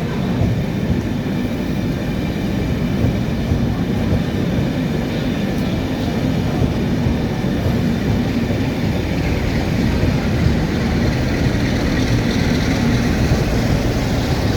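A train running on the rails: a steady, heavy rumble that grows slightly louder towards the end.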